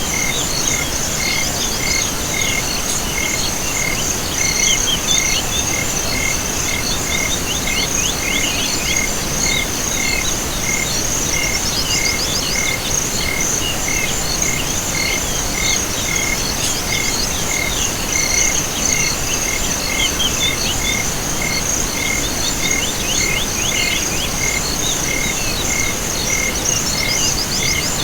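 Chorus of crickets and other insects: a steady high trill with a regular chirp about twice a second, and every several seconds a quick run of fast chirps.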